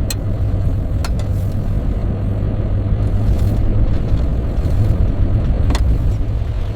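Steady low rumble of a vehicle driving, heard from inside, with a few sharp clicks scattered through it.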